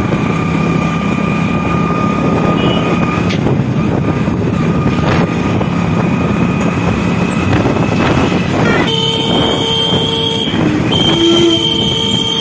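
Riding noise on a motorcycle in traffic: steady engine and wind rumble, with a long vehicle horn held for about the first three seconds and another horn starting suddenly about nine seconds in.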